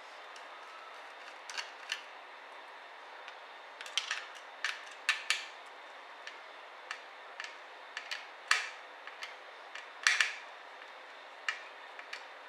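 Irregular sharp clicks and taps of small laptop parts and tools being handled, a few with a brief ring, over a steady hiss.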